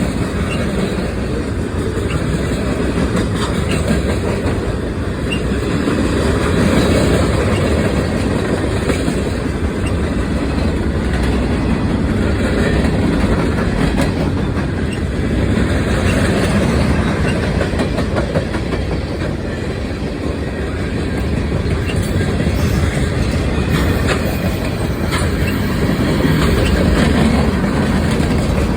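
A train's cars rolling past with a steady rumble and the clickety-clack of wheels over rail joints.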